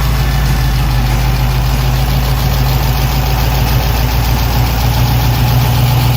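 1957 Chevrolet Corvette's dual-quad 283 V8 idling steadily.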